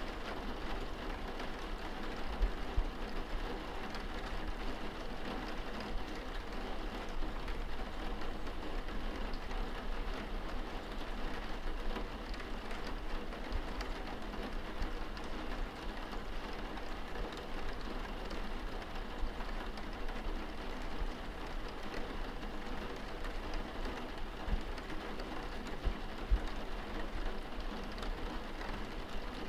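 Steady rain pattering on window glass, heard from indoors, with a few louder individual drop hits, over a low steady rumble.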